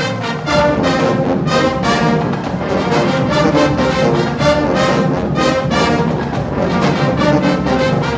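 HBCU-style marching band playing loudly, a full brass section of trumpets and trombones over a steady drum beat.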